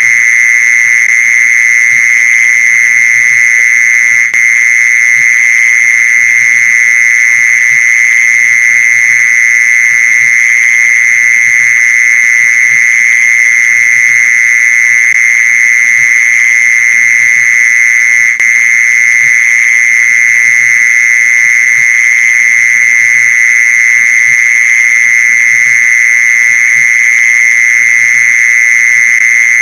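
Mole cricket's call: one loud, continuous trill held at a steady pitch, broken only by two very short dips, about four seconds in and about eighteen seconds in.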